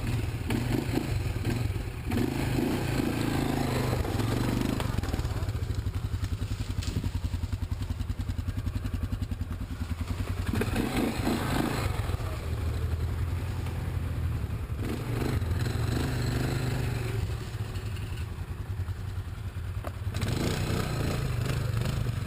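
Motor vehicle engine running steadily under way, with clattering and a few knocks.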